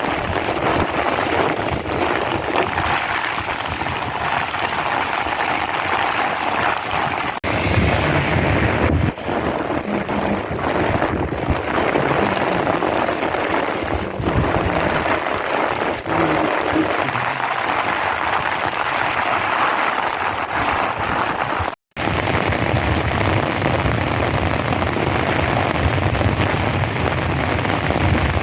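Heavy rain falling in a steady, dense hiss. The sound cuts out for a split second about two-thirds of the way through.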